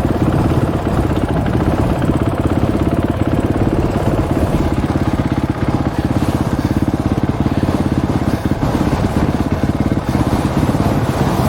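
Dirt bike engine running at a steady, even speed, with no revving.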